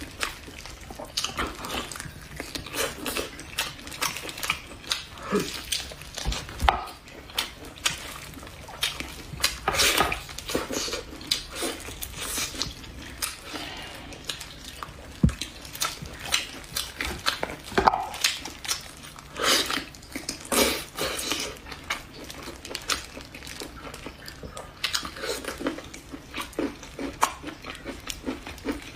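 Eating sounds: irregular wet chewing and smacking, with clinks of dishes and cutlery.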